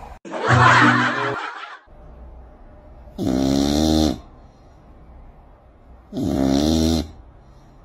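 A sleeping domestic cat snoring: three separate snores, the last two about three seconds apart.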